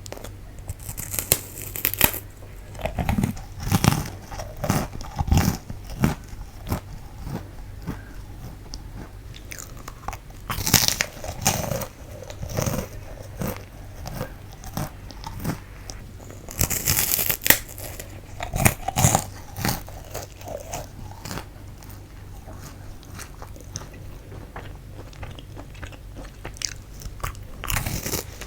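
Biting into and chewing fu-gashi, a light puffed wheat-gluten stick snack: bursts of crisp crunching about a second in, around eleven seconds and around seventeen seconds, with softer chewing between them.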